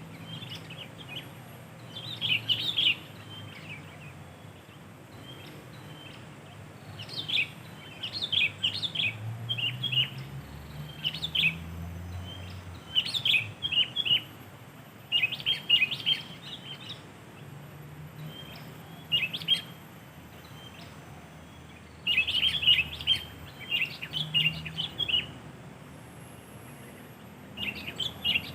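Sooty-headed bulbul (kutilang) calling: clusters of short, quick high chirps, repeated every few seconds with pauses between.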